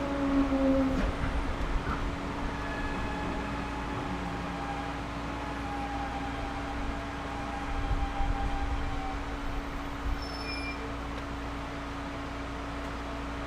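Interior of a Series 211-5000 electric train: a falling motor tone dies away about a second in, leaving a steady hum and low rumble with a few light knocks, typical of the train slowing to a halt and standing at a station.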